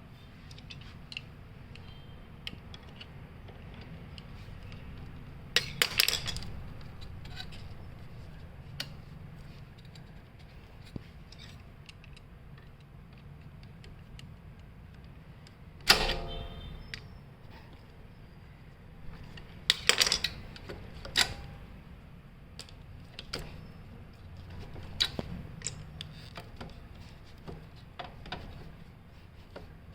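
Scattered clicks, clinks and knocks of tools and metal parts being handled, over a low steady hum. The loudest knocks come about six, sixteen and twenty seconds in.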